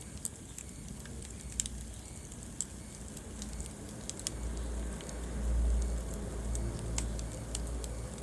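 Wood fire burning in a fireplace: scattered sharp crackles and pops over a low, steady rumble of flames that swells briefly a little past the middle.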